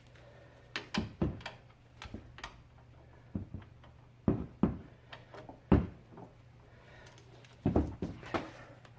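Scattered metallic clicks and knocks of hand tools on the front brake assembly while the 13mm caliper bracket bolts are being broken loose, over a faint steady low hum.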